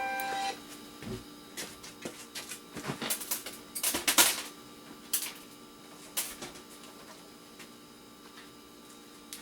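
Clicking and clattering from electronic scrap parts and hand tools being handled and dropped during a teardown, densest about three to four seconds in, then dying away. A steady low hum runs underneath.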